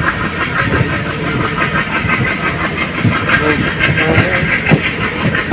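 Moving passenger train heard from beside the coach's open window: steady running noise with wheels clattering on the rails and irregular low knocks from the track.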